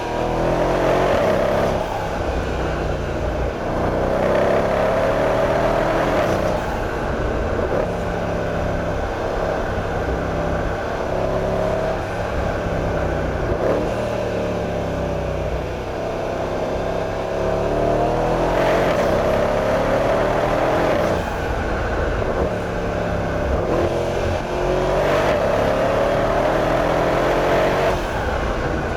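Mercedes-AMG CLS63's twin-turbo V8 engine being driven hard, its revs climbing and dropping again and again as the car accelerates.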